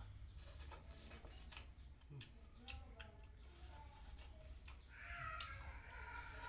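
Faint bird calls in the background, with scattered small clicks and a low steady hum.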